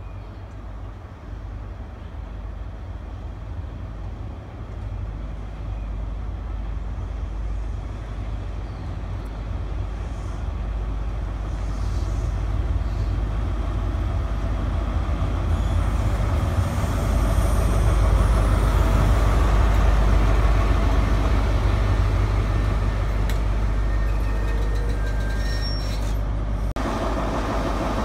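Diesel train approaching and running by, its engine rumble and wheel noise building steadily to a peak about two-thirds of the way through, then the sound changes abruptly near the end.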